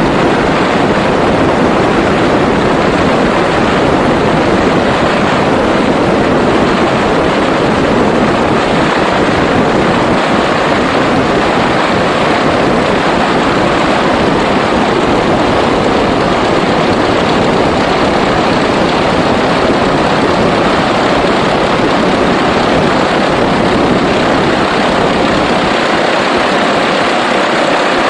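Grumman G-164 Ag Cat seaplane's engine and propeller running loud and steady, with the rush of prop wash.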